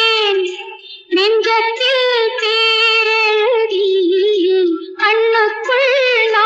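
A high female voice singing a wordless, ornamented melody line from a Tamil film song. It pauses briefly about a second in and again near five seconds.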